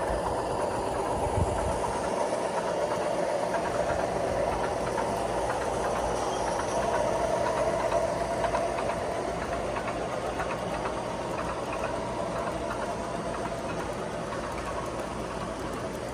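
Model railroad train of seven locomotives hauling 28 cars running steadily along the layout track, with a continuous rolling rumble and fine clicking of wheels. It eases off slightly in the second half.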